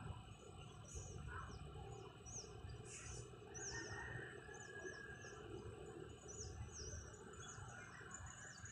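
Small birds chirping faintly: repeated short, high chirps, each sliding down in pitch, one or two a second, over a low steady background rumble.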